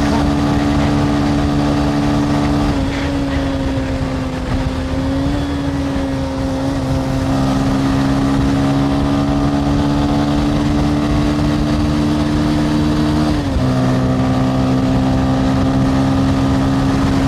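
Motorcycle engine running while riding, a steady droning note over road noise. The pitch drops about three seconds in, the level eases for a few seconds, and the note steps down again near the end.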